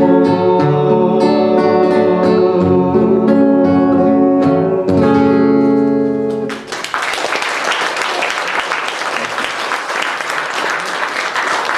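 Acoustic guitar playing the closing chords of the song, then audience applause breaking out a little past halfway.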